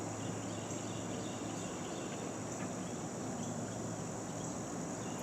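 Steady, high-pitched chorus of insects, cricket-like, over a faint low hum.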